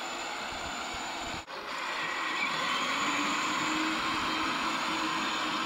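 Child's 12 V electric ride-on quad driving along: a steady rush of tyre and wind noise with a faint motor-and-gearbox whine that gets louder after a brief dropout about a second and a half in. The motor is a little bit noisier, which the owner puts down to probable slight damage to one of its plastic gears.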